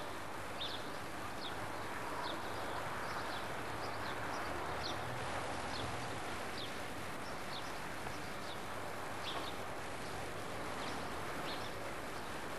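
Small birds chirping in short, high calls about once or twice a second over a steady hiss of outdoor background noise.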